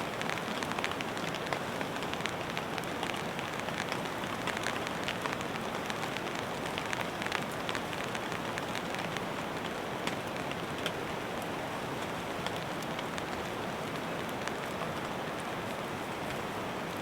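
Rain falling and pattering on a surface, a steady wash with many separate drops ticking, densest in the first half.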